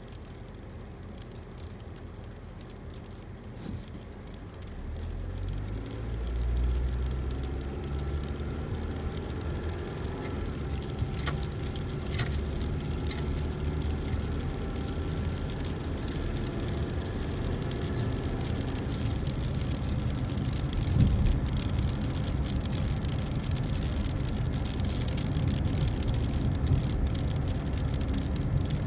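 Car engine and road noise heard from inside a moving car: a quiet hiss at first, then a low rumble that swells about five seconds in as the car pulls away and continues steadily, with a few scattered clicks.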